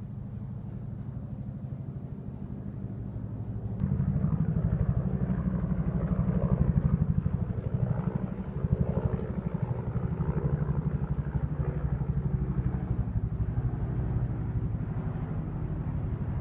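A motor running with a steady low hum, which gets suddenly louder about four seconds in.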